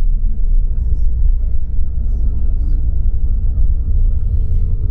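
Steady low rumble of a tour bus's engine and tyres on the road, heard inside the bus cabin while driving.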